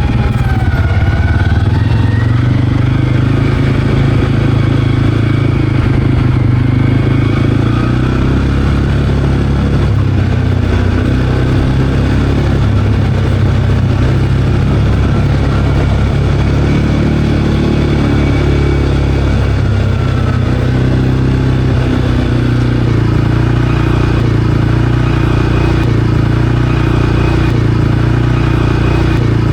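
CFMOTO Cforce 520L ATV's single-cylinder engine running steadily while riding, with only small shifts in pitch.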